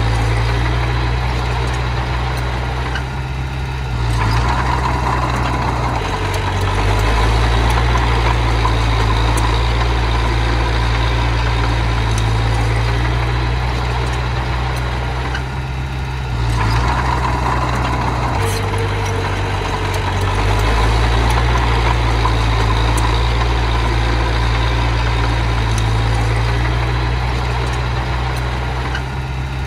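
Small bulldozer's diesel engine running steadily under work. It eases off briefly and picks up again twice, about four seconds in and about sixteen seconds in.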